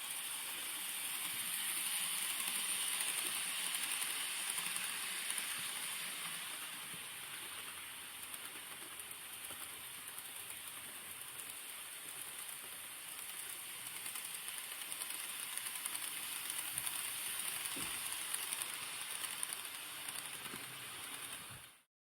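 N-gauge model train running on its track: a steady rattling hiss of wheels on rails and the small motor, swelling louder twice, then cut off abruptly near the end.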